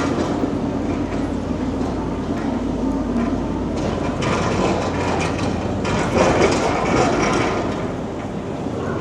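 Busy city street noise: a steady low rumble under a broad hiss, which swells between about four and eight seconds in.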